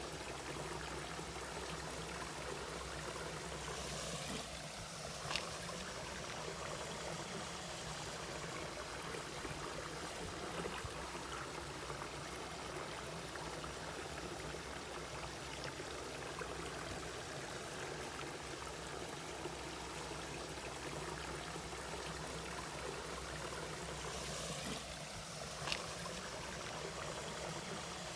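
Mountain valley stream flowing steadily, with a brief sharp tick twice, about five seconds in and near the end.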